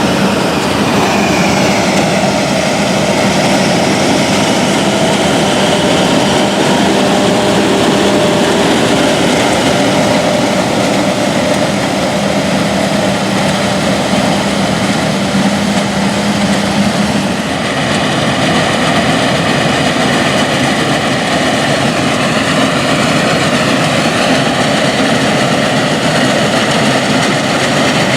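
Vintage tractor engine running steadily while pulling a corn picker through the field; the engine note shifts about two-thirds of the way through.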